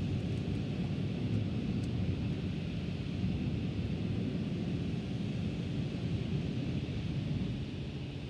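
Steady low rumble of an automatic car wash at work, heard from inside the car.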